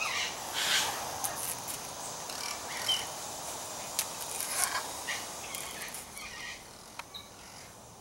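Birds calling: scattered short calls and chirps, loudest in the first second, thinning out and growing quieter near the end.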